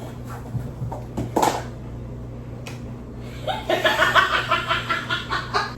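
A few light knocks and rustles, then, about three and a half seconds in, a person giggling for about two seconds in quick rhythmic pulses.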